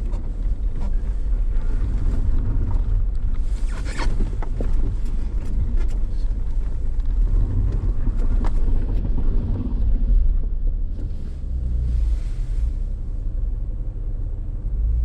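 Steady low rumble of a Jeep driving slowly on a snowy road, heard from inside the cabin, with a few light clicks and knocks and brief rushes of hiss.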